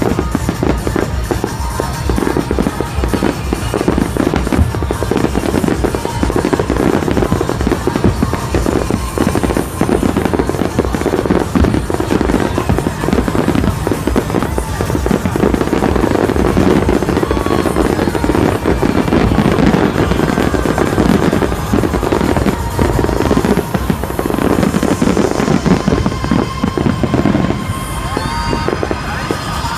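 Fireworks display: a dense, continuous barrage of bangs and crackling, with music playing alongside.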